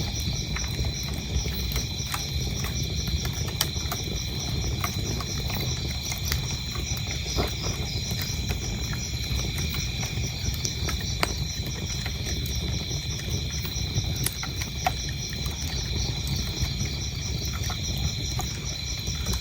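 Wood fire burning in a fireplace, with a steady low rumble and frequent irregular crackles and sharp pops. Crickets chirp throughout in a steady, evenly pulsing high trill.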